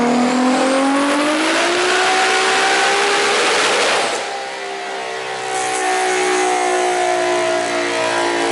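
Car engine run up through the revs in one long full-throttle pull on a chassis dyno, pitch climbing steadily for about four seconds with a thin high whine rising at the start, then backing off to steadier, quieter running.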